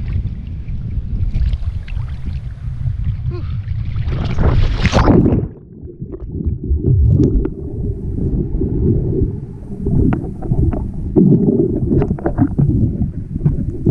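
Sea water sloshing around the camera with wind buffeting the microphone, swelling to a splash about five seconds in; after that the sound turns abruptly muffled, only a low rumble with scattered knocks and gurgles.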